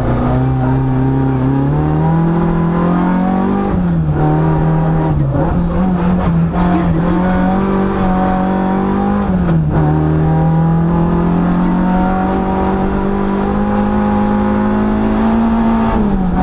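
Citroën AX GTI's four-cylinder engine, heard from inside the cabin, running hard on a hillclimb: the engine note climbs steadily and drops sharply at each gear change, about four seconds in, near ten seconds and near the end.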